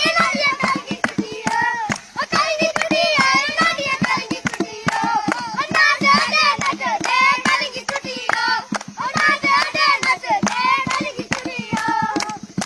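Children chanting and singing together in high voices, with fast, continuous hand clapping throughout.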